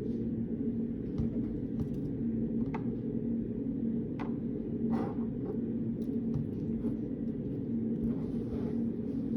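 Steady low hum of a study room's background noise, with a constant tone in it, and scattered light clicks and taps at a desk while someone studies.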